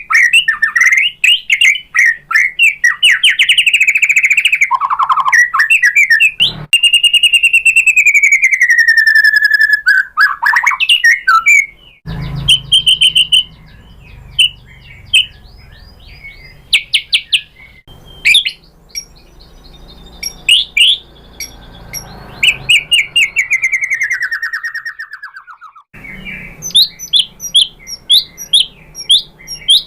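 White-rumped shama singing: loud clear whistles that slide slowly down in pitch, fast trilled runs and sharp clicking notes. The song goes quieter for a while in the middle, then the fast notes come back near the end.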